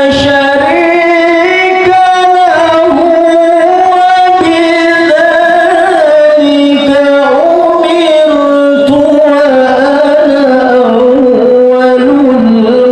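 A male qari's voice in Qur'an recitation (tilawah), unaccompanied, drawing out one long melismatic line with wavering vocal ornaments that rise and dip in pitch.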